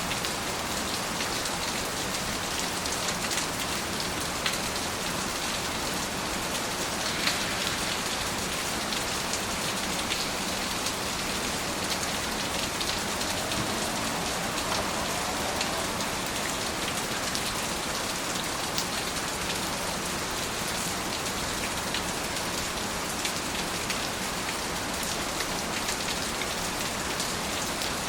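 Steady, dense rainfall, with scattered individual drops ticking sharply against a surface.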